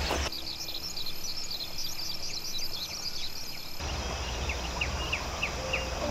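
Small birds chirping, many quick high falling notes in close succession, over rural outdoor ambience. About four seconds in the background changes abruptly and a low steady rumble comes in, while the chirps go on.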